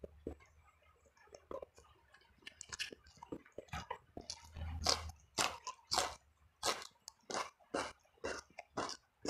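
Close-up mouth sounds of a person chewing a meal of eel, tempe and rice: sharp, wet chewing clicks, sparse at first and coming more often and louder from about halfway, roughly one to two a second.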